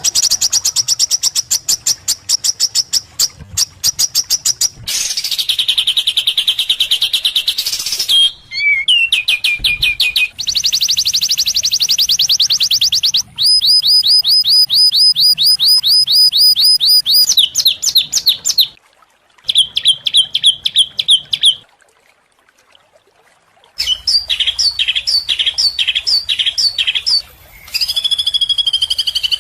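Songbirds singing fast, high trills and rattling chatter of rapidly repeated notes. The phrases switch abruptly from one song type to another, with a short break about two-thirds of the way in.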